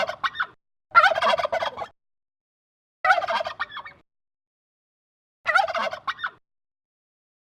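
Turkey gobbling: four short gobbles about two seconds apart, the first already under way as it begins, with silence between calls.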